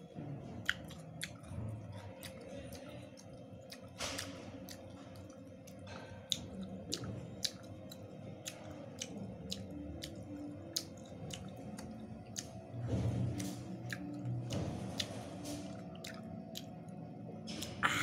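Close-up chewing of raw banana stalk, with frequent sharp wet clicks and crunches from the mouth, growing louder for a couple of seconds past the middle.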